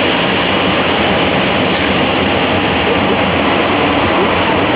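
Airbus A380 jet engines at takeoff power: a steady, loud rushing noise with a low rumble underneath.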